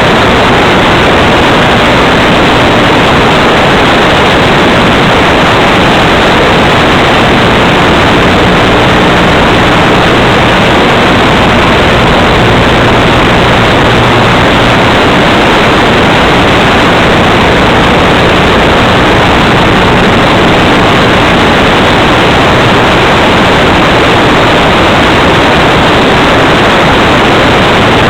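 Loud, steady hiss that stays unchanged throughout, with a faint low hum beneath it.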